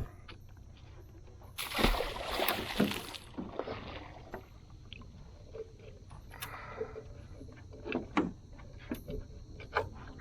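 Knocks and handling noise on a small fishing boat: a noisy rush about two seconds in, then a few sharp knocks near the end, over a steady low rumble.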